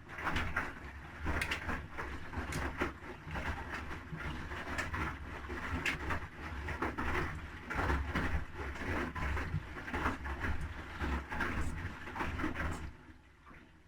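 Haier I-Pro Series 7 front-loading washing machine's drum turning and tumbling the wet load. Sloshing and irregular knocks sit over a low motor rumble for about thirteen seconds, then the drum stops near the end.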